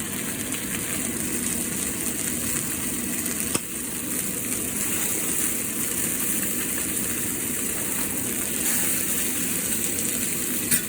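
Marinated chicken frying in a hot cast iron pan on low heat: a steady sizzle, with one short click a few seconds in.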